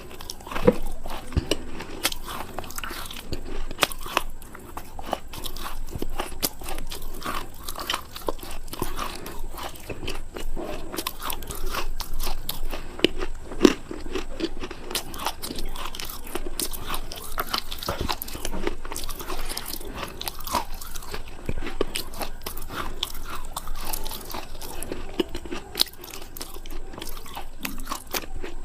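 Close-up biting and chewing of hard, dry edible clay (naku mitti) chunks: an unbroken run of crisp, irregular crunches.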